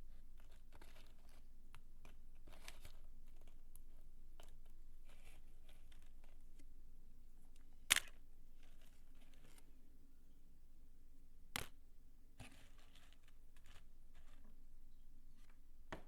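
Dry soap being crumbled and handled close to the microphone: soft, irregular crackling and rustling, with two sharp clicks about halfway through and later on.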